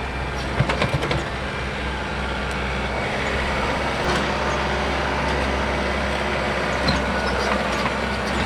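Heavy diesel machinery running steadily, with a few sharp knocks about a second in.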